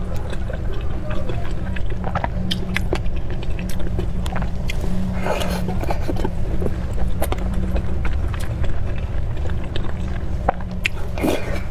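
A person chewing and biting food close to the microphone: scattered small clicks and wet mouth sounds over a steady low rumble.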